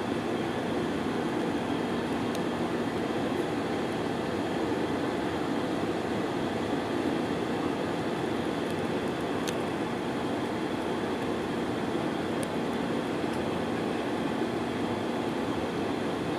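Airbus A320-214 cabin noise during the climb: a steady drone of CFM56 engines and airflow past the fuselage, with a constant low hum and a few faint clicks.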